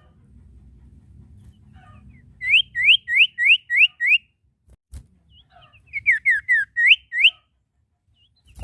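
Sirtu (common iora) singing: a quick run of six clear rising whistles, then after a pause a few falling whistles and two more rising ones.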